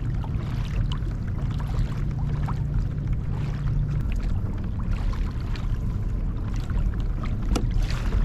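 A kayak under way on open water: a steady low rumble, with small splashes and drips against the hull.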